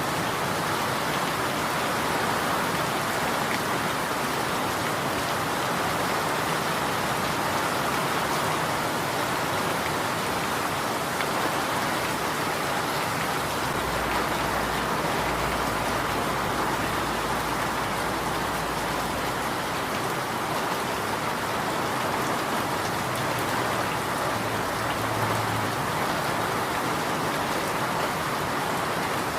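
Steady rain falling, a dense, even patter of drops. A low rumble sits beneath it for several seconds midway.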